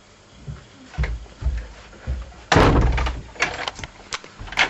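A door slamming shut about two and a half seconds in, the loudest sound here, after a few dull thumps and followed by a handful of sharp clicks.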